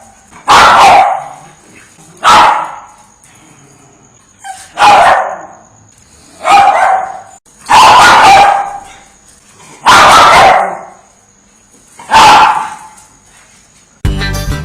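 A dog barking: seven loud, single barks spaced about every one and a half to two seconds. Guitar music starts just before the end.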